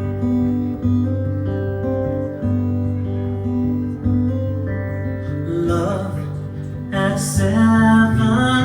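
Acoustic guitar playing a song's introduction, strummed chords changing every second or so. A louder, wavering held melody line comes in over it about six seconds in.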